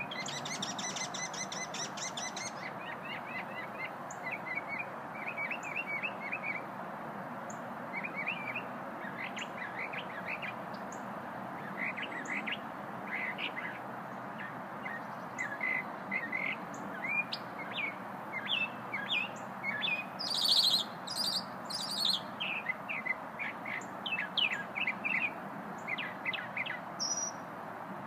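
A small songbird singing, repeated phrases of quick chirps and short trills with brief pauses between them, a louder, higher burst of notes about two-thirds of the way through. Steady background noise runs underneath.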